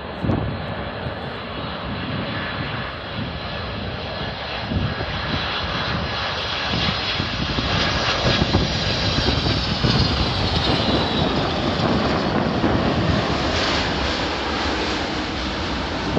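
Jet airliner's engines passing close by, a steady roar that builds up, with a high whine that falls in pitch about ten seconds in as the aircraft goes past.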